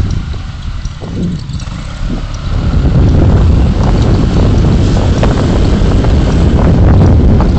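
Car driving, with a steady low rumble of road and wind noise that is quieter for the first couple of seconds and then grows louder, and small scattered knocks and rattles throughout.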